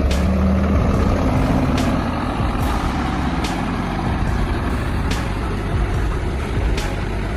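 Heavy truck engine running steadily, a loud low drone whose deepest tone eases about a second in. Faint sharp clicks recur every second or two over it.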